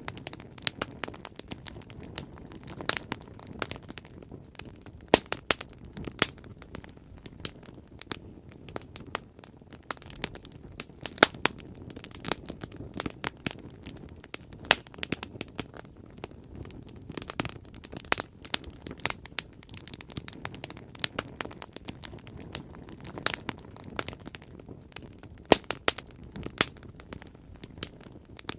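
Wood fire crackling, with many irregular sharp pops and snaps over a steady low rustle of burning.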